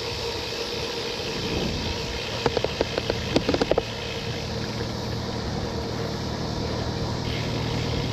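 Bicycle rolling along with steady wind and tyre noise. A quick run of about ten sharp clacks comes between about two and a half and four seconds in, as the tyres cross the joints or boards of a small bridge.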